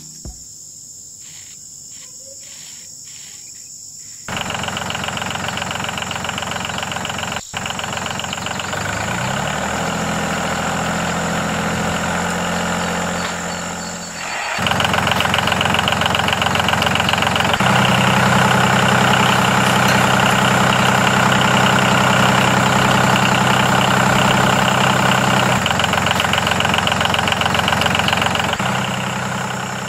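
A small electric motor running with a fast buzz. It starts suddenly about four seconds in, cuts out briefly once, and runs louder from about halfway through.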